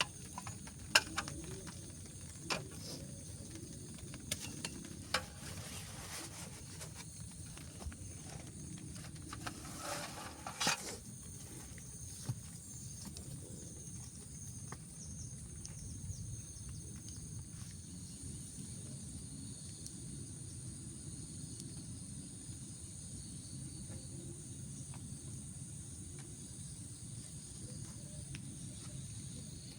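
Steady high-pitched chorus of night insects, over a low, even background rumble. Scattered sharp clicks and knocks come in the first half, with a brief louder rustle about ten seconds in.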